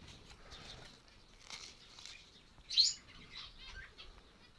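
Small aviary birds fluttering their wings, with one short chirp nearly three seconds in.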